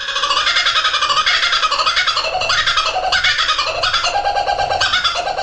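Laughing kookaburra calling: its 'laugh', a long, loud run of rapid repeated notes.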